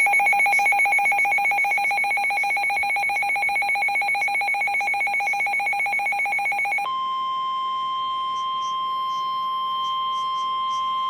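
Emergency alert tones from a weather-alert receiver. A rapidly pulsing two-tone attention signal runs for about seven seconds, then switches to a steady single tone near 1 kHz, the NOAA Weather Radio warning alarm tone that precedes a new severe thunderstorm warning.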